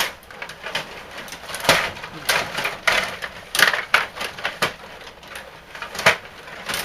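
Ice hockey play: irregular sharp clacks and scrapes of sticks, puck and skates on the ice, several loud ones a second or so apart.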